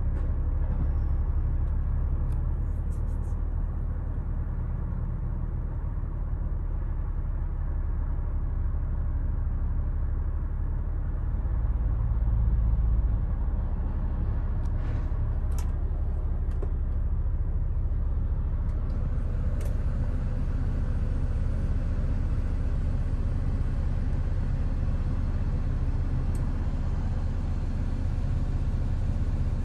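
2006 Mini Cooper S four-cylinder engine idling steadily after a cold morning start, with a brief swell in the low rumble about twelve seconds in.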